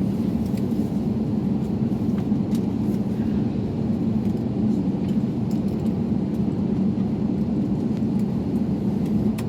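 Steady low cabin hum inside an Airbus A321neo airliner on the ground before takeoff, from its engines and air conditioning, with a few faint ticks.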